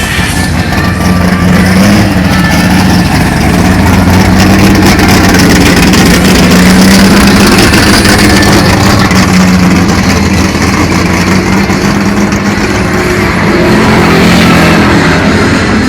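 A car engine running loud and rough, its low drone swelling a little in the middle and again near the end.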